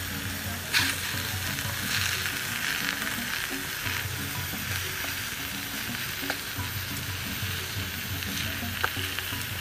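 Wild mushrooms, enoki among them, stir-frying in hot oil with garlic: a steady sizzle, with a few sharp clicks as the pan is stirred.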